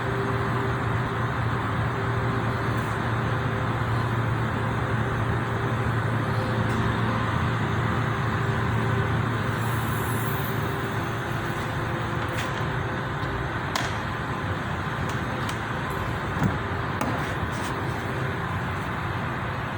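A car engine running steadily: a constant low hum under an even wash of noise, with a few faint ticks.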